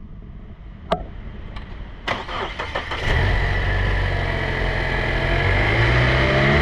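A 2024 Mazda CX-50's 2.5 L four-cylinder engine being started: a couple of clicks, a brief crank, then it catches about three seconds in and runs at a steady idle, rising a little in pitch near the end.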